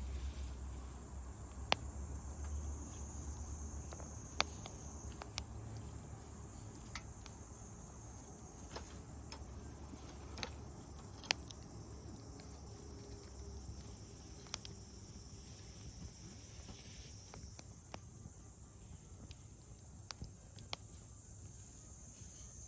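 Crickets or similar insects trilling steadily at a high pitch, with a dozen or so scattered sharp clicks and a low rumble underneath.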